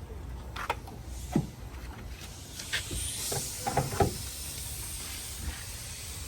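A handful of sharp clicks and knocks as parts are handled under a car's bonnet, over a low steady rumble. A hiss comes in about three seconds in and fades out a couple of seconds later.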